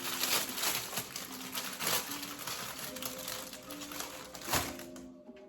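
Rustling, crinkling handling noise from the wrap's plastic packaging over soft background music, with one sharp knock about four and a half seconds in; the crinkling stops near the end.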